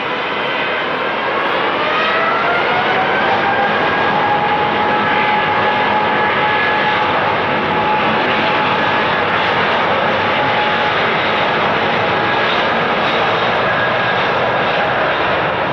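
Airliner's engines spooling up to takeoff power on the runway: a whine rises over the first few seconds and then holds steady over loud, continuous engine noise.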